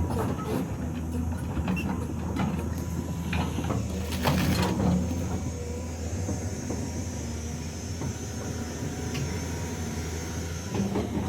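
Hydraulic excavator's diesel engine running steadily under work, with irregular knocks and clanks, the loudest a burst of clatter about four seconds in.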